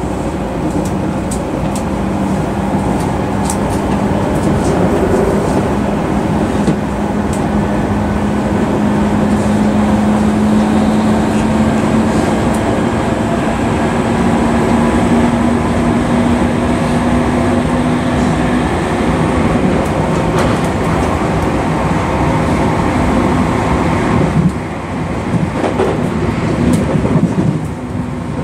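Tokyu 3000 series commuter train heard from inside the car while running: a steady rumble of wheels on rail with a low hum that slowly rises in pitch, then fades. The running noise gets a little quieter about 24 seconds in, with a few knocks.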